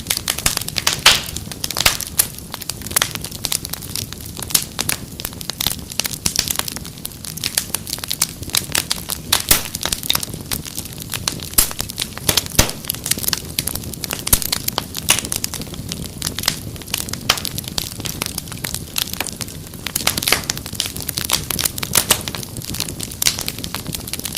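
Wood fire crackling, with dense, irregular sharp pops and snaps over a steady low rumble of flame.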